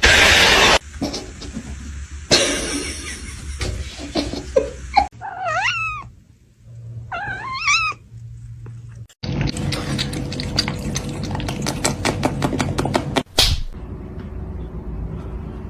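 A cat meowing: two drawn-out, wavering calls that rise and fall in pitch. Around them are a loud burst of noise at the start and a few seconds of rapid clicking.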